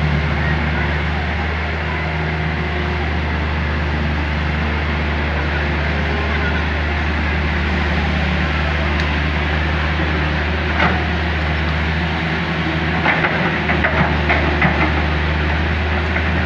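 Hydraulic excavator's diesel engine running steadily at a constant pitch. A sharp knock comes partway through, and a quick cluster of knocks follows near the end.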